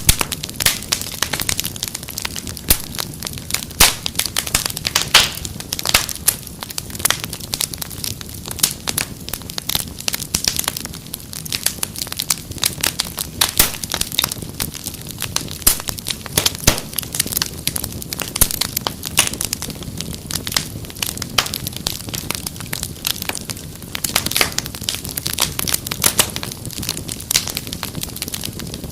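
Wood fire crackling, with many irregular sharp pops and snaps over a steady low rush of burning.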